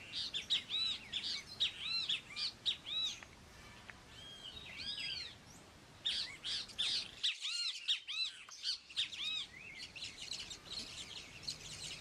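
Wild birds calling: runs of short, arched chirps, several a second, coming in a few bursts with brief pauses between.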